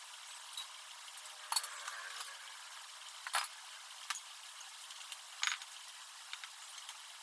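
Scattered light clinks and taps over a steady hiss. The sharpest comes about three and a half seconds in.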